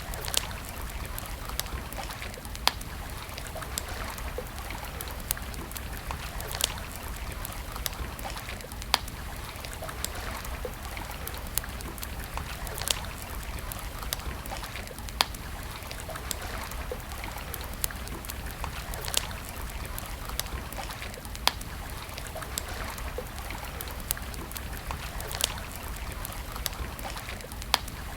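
Wood campfire crackling, with sharp pops every second or two and many smaller ticks, over a steady rushing hiss of flowing water.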